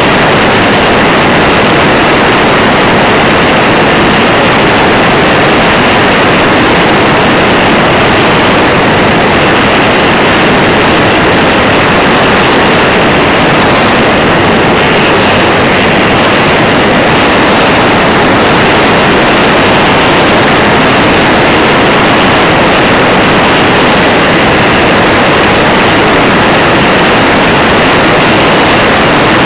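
Loud, steady rushing noise with no distinct engine tone, picked up by a micro camera on board a model Cessna airplane: propeller and motor noise mixed with wind on the tiny microphone.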